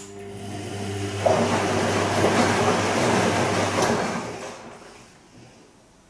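Bosch Serie 2 VarioPerfect washing machine late in its Silk programme: a click, then a steady hum with rushing water that swells and fades away over about four seconds.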